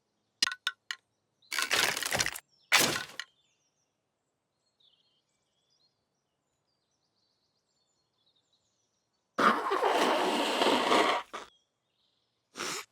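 Cartoon sound effects: a few quick clicks, then two short cracking bursts. After a long silence with faint high chirps, a longer cracking burst of about two seconds follows, and two brief bursts come near the end.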